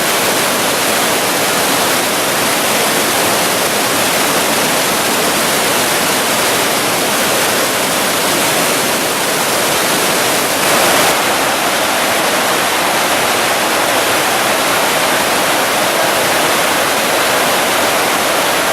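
Flash-flood water rushing steadily in a loud, even torrent, with a brief slight swell about halfway through.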